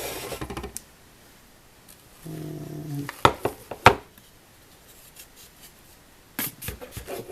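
Hard clicks and clatter of a graphics card's cooler shroud and parts being handled and tried in place, with sharp clicks a little after 3 s and again near the end. A brief low hum from a person comes in just after 2 s.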